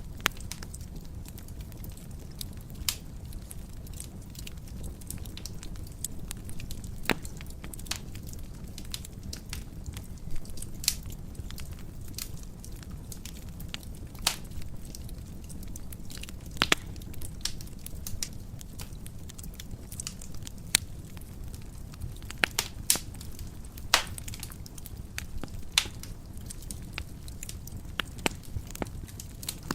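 Wood fire burning in a fireplace: a steady low rumble of flames with irregular sharp crackles and pops, several louder snaps scattered throughout.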